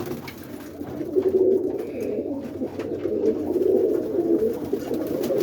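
Many pigeons cooing together, a continuous overlapping low warble that fills the enclosed loft.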